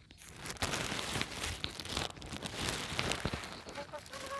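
Plastic sheeting crinkling and rustling as it is handled, with many small crackles. Near the end a bird starts a steady call.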